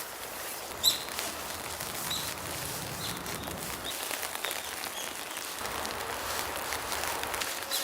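Steady rain, with a sharp drip or tap about a second in and scattered small drips.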